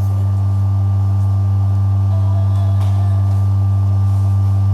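A steady low hum with even overtones, unchanging in pitch and level.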